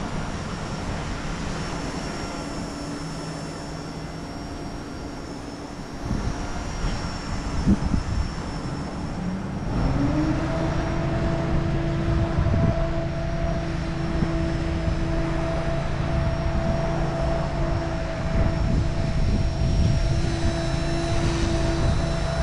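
XK K110s micro RC helicopter's brushless motors and rotors whining steadily in a hover, over low rumbling wind on the microphone. About ten seconds in, the whine rises in pitch and gets louder, then holds at the higher pitch.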